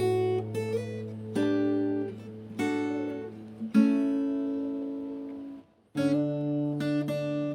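Background music on acoustic guitar: plucked notes and strummed chords ringing and dying away, with a brief break of silence about two-thirds of the way through.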